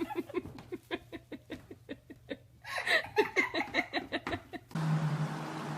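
A person laughing in quick, repeated breathy pulses, in two bouts with the second louder. It cuts off abruptly near the end, giving way to a steady hiss with a low hum.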